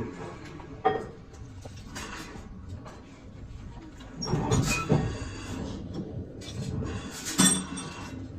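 Metal workshop noise: a few sharp metal knocks and clanks over a steady low hum, the loudest cluster about halfway through, some with a brief metallic ring.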